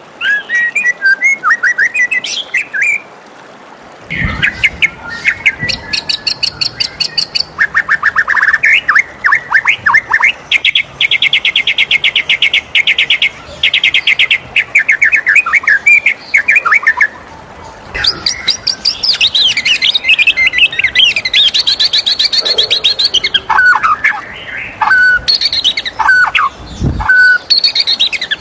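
White-rumped shama singing a long, varied song: fast trills of rapidly repeated notes, sliding whistles and chattering phrases, with only short pauses between them.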